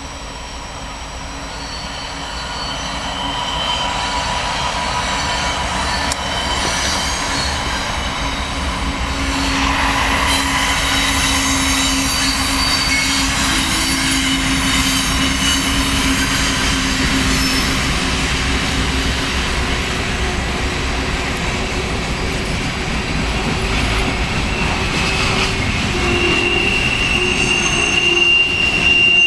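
Empty coal train rolling past on steel rails, with a low rumble and wheels squealing in several steady high tones. It grows louder over the first few seconds, then holds.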